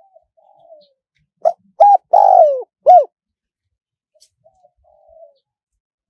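Spotted dove cooing: a soft opening note, then four loud coos starting about a second and a half in, the third drawn out and falling in pitch, followed by soft, quiet notes near the end. It is a decoy call of the kind played to lure wild doves in.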